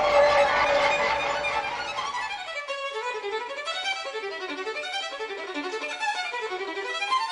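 Violin music: a fuller passage fades over the first two seconds, then a quick run of short notes climbs and falls in waves.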